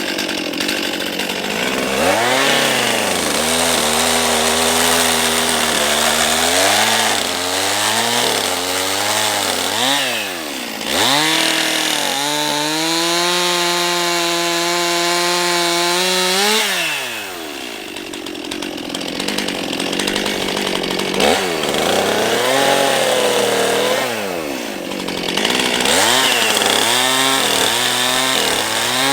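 Chainsaw revving and cutting wood, its engine pitch swooping up and down again and again. It holds one long steady high-speed cut in the middle before dropping back.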